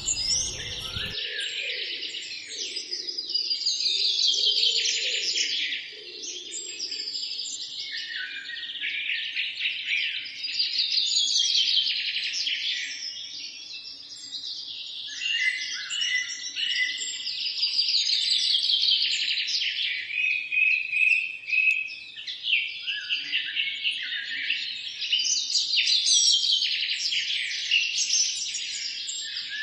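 A chorus of songbirds singing at once, overlapping chirps and trills, with falling trilled phrases recurring every few seconds. A low background rush cuts out about a second in.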